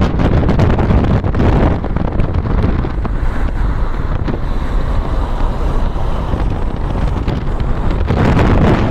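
Wind buffeting the microphone: a loud, gusty rushing noise, heaviest in the low end, that swells near the end.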